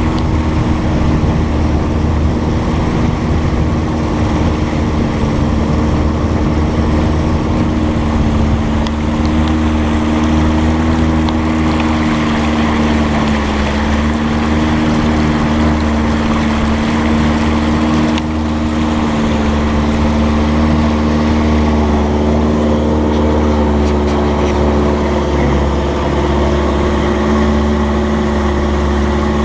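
Engine of a motorised long boat running steadily under way, its note holding even with a slight dip in pitch about halfway through.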